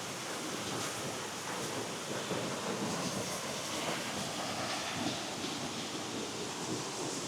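Steady rushing of flowing water from a spring-fed stream.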